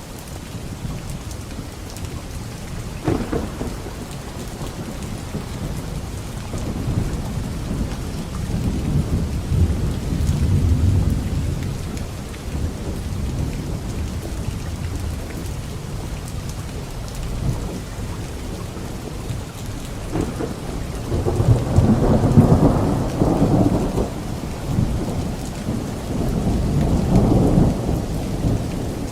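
Steady heavy rain with rolling thunder. A brief crack comes a few seconds in and a low rumble near the middle, and the loudest peals roll through in the last third.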